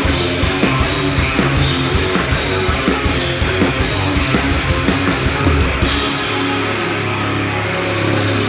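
Live rock band playing an instrumental passage with electric guitar and drums. About six seconds in the drums drop out, leaving a held bass note under sustained guitar.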